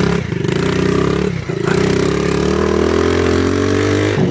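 Off-road vehicle engine running under throttle, with a brief let-off about a second and a half in, then pulling steadily again as its pitch slowly rises.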